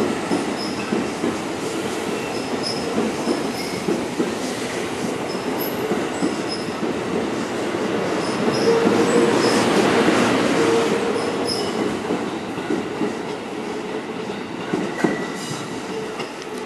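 JR West 207 series electric commuter train running out past the platform, wheels rumbling with short high squeals now and then. It is loudest about halfway through as the cars go by, then fades as the last car pulls away.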